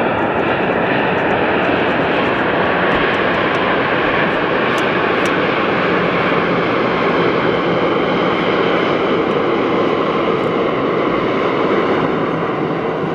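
Airliner's engines running loud and steady: a dense rush of engine noise with a faint whine, easing slightly near the end.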